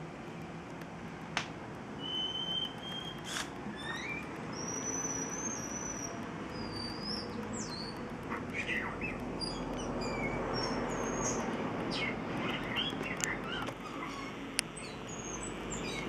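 Unidentified birds calling: clear high whistled notes, some gliding up or down, in the first half, then a run of short chirps in the second half, over a steady low background rumble.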